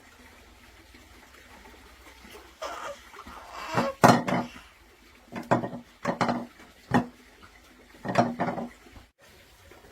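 Dishes and pots clattering: a run of irregular knocks and scrapes that starts a little past two seconds in and stops shortly before the end.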